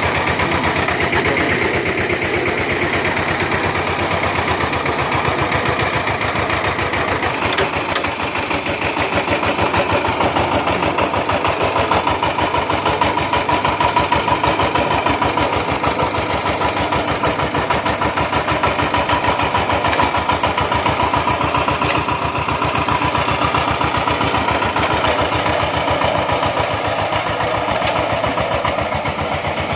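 VST Shakti 130-DI power tiller's single-cylinder diesel engine running steadily, its rapid, even firing beats continuing without a break.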